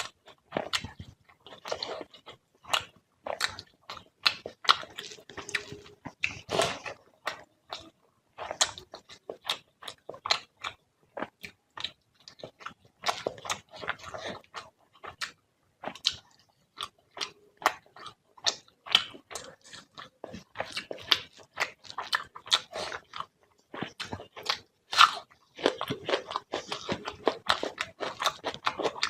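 Close-miked eating of fish curry and rice: wet chewing, lip-smacking and crunching, a quick, irregular run of sharp mouth clicks.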